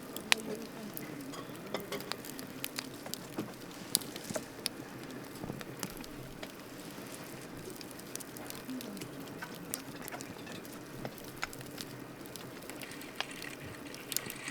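Wood campfire crackling: sharp, irregular pops and snaps of burning wood over a steady low rush of the flames.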